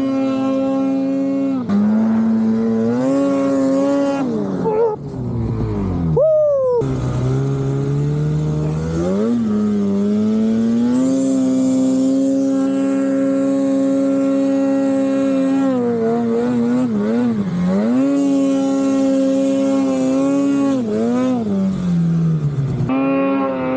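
Snowmobile engine running hard under throttle, its pitch holding steady and then dipping and climbing again several times as the rider eases off and gets back on the gas. About six seconds in there is a sharp drop and a steady climb back up.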